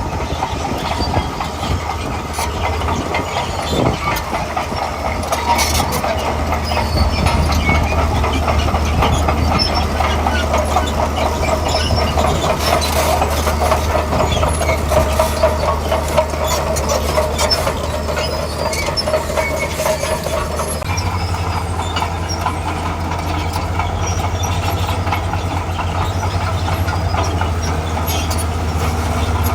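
Tracked earthmover's diesel engine running steadily under load while its steel crawler tracks clank and squeal. The engine note shifts about two-thirds of the way through.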